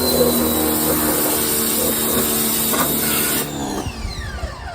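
Small electric pressure washer running and spraying, a loud hiss of water over the motor's steady hum; about three and a half seconds in the spray stops and the motor winds down in a falling whine. The owner reckons it isn't getting enough water pressure.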